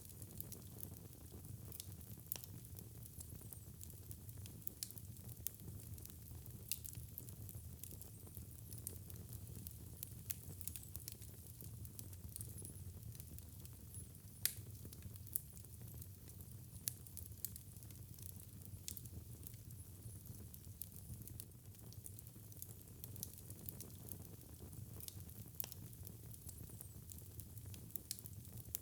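Wood fire in a fireplace crackling, with irregular sharp pops and snaps over a low steady rumble of the burning; the loudest pop comes about halfway through.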